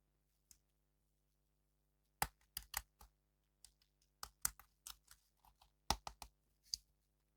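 Quick, irregular hard clicks and taps of small plastic parts or packaging being handled during an unboxing of an action figure, starting about two seconds in.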